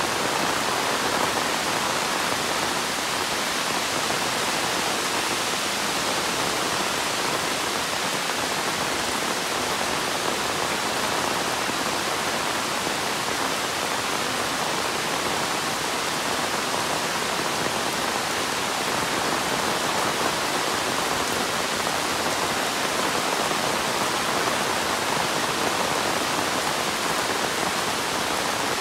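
Heavy monsoon rain falling steadily, a dense even hiss without let-up.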